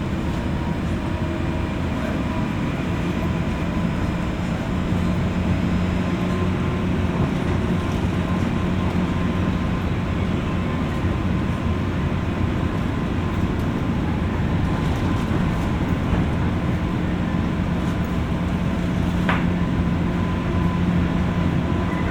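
Running noise inside a JR West 201 series electric train car at speed, heard from above the motor car's armature chopper: a steady rumble of wheels on rail with a low motor hum and a faint steady whine. A single brief click about nineteen seconds in.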